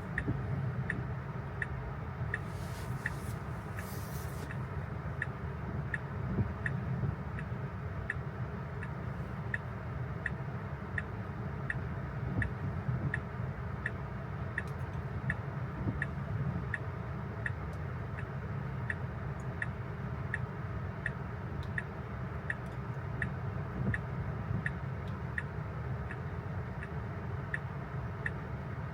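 Tesla's turn-signal indicator ticking steadily inside the cabin, about one and a half ticks a second, over a low steady hum.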